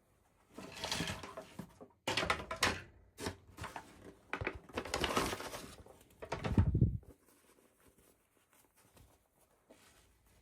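Toy packaging being handled and opened: several bursts of crinkling and rustling, with a low thud about six and a half seconds in.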